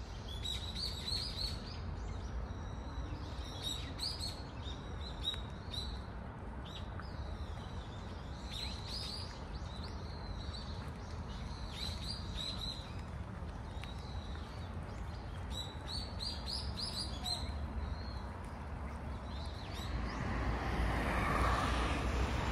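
Small birds chirping in bursts of quick, high, rising calls a few seconds apart, over a steady low outdoor rumble; a rush of noise builds near the end.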